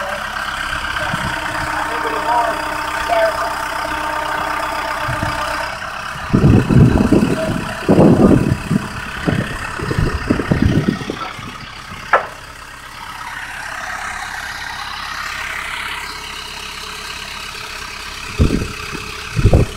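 A vehicle engine idling steadily, with loud low rumbling blasts about six to eleven seconds in and again near the end, and a single sharp click around the middle.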